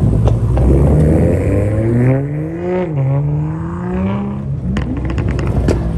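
Car engine accelerating hard. Its pitch climbs, drops sharply about three seconds in as it shifts up a gear, then climbs again before backing off. A run of sharp cracks follows near the end.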